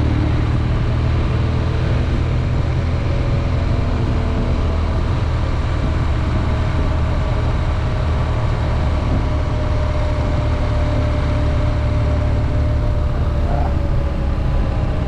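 BMW R nineT's boxer twin engine running steadily while the motorcycle cruises along the road.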